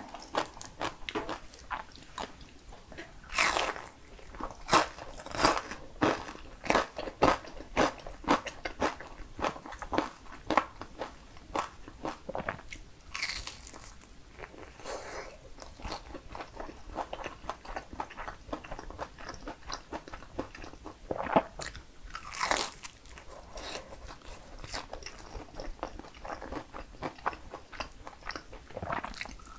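Close-miked biting and chewing of a breaded, deep-fried mozzarella-cheese pork cutlet (Dongwon Cuisine crispy donkatsu). It makes a run of crisp crunches as the coating breaks, loudest in clusters near the start, in the middle and about two-thirds through, with softer chewing between.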